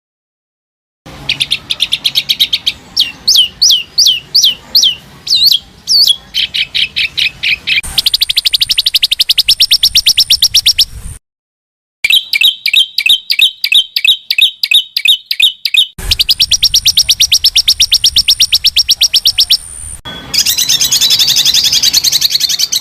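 Edited sequence of songbird recordings: bursts of fast repeated chirps, a run of hooked downward-sweeping whistles, and rapid even trills of shot-like notes, ending in a dense warble. The segments start and stop abruptly, with brief dead silences between them.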